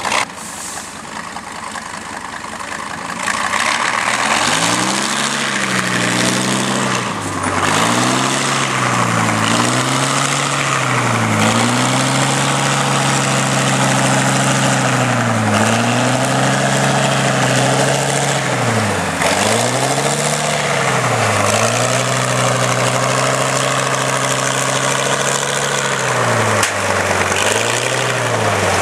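Heavy off-road trial truck's diesel engine working hard, growing loud about three seconds in. Its revs repeatedly drop and pick up again, a couple of seconds apart, as the throttle is worked on the course.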